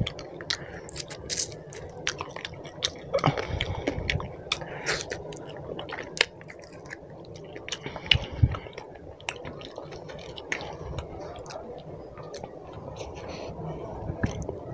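Close-miked chewing of roti and chicken curry, with many sharp wet mouth clicks and smacks. The loudest smacks come about three seconds in and twice around eight seconds in.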